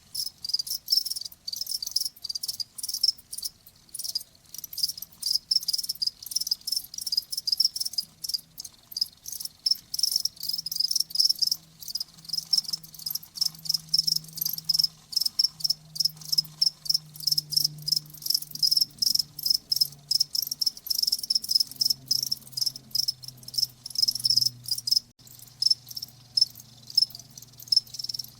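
Crickets chirping in a steady chorus of rapid, high-pitched pulses.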